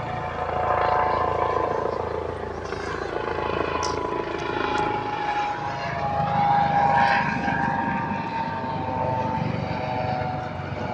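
A steady engine drone whose pitch drifts slowly, loudest about a second in and again about seven seconds in.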